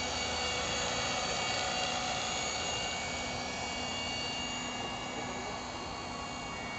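Compass Atom 500 electric RC helicopter in flight: the brushless motor and rotor blades make a steady, multi-toned whine.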